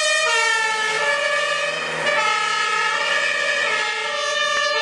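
German fire truck's two-tone siren (Martinshorn) sounding, stepping back and forth between a high and a low note.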